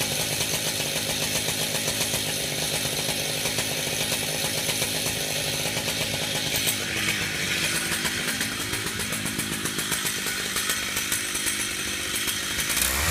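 Chainsaw running steadily, its engine speed dipping and coming back up about eight to nine seconds in.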